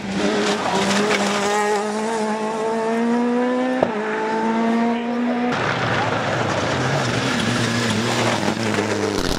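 Rally car engine at full throttle, its pitch climbing steadily through a gear, with a sharp drop at an upshift about four seconds in before it climbs again. About halfway through it switches abruptly to another stretch of hard-driven rally engine, rougher and slowly rising.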